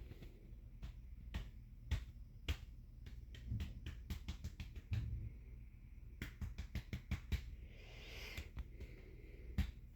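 Dog making a string of sharp clicks and smacks close by, irregular at first, with a quick run of them about six to seven and a half seconds in and a short breathy hiss near eight seconds.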